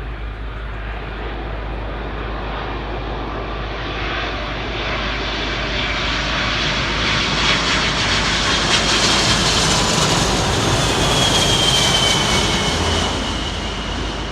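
Jet airliner landing at Heathrow, passing close by. The engine noise builds to a peak about two-thirds of the way through, with a high whine that falls in pitch as it passes, then eases off.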